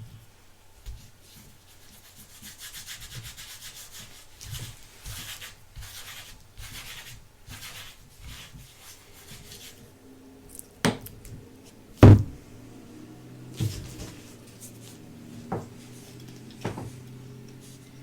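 Close-up rubbing and scraping of handled objects, followed by a handful of sharp clicks and knocks, the loudest about twelve seconds in.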